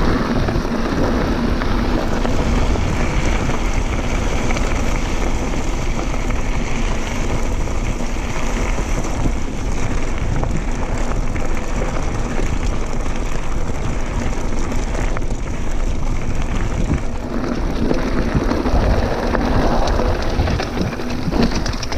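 Continuous wind noise buffeting the microphone, mixed with the steady rumble and rattle of a mountain bike rolling over a rough dirt trail.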